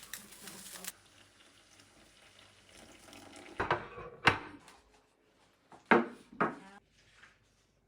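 Water splashing at a sink: four short splashes in two pairs, after a quiet stretch.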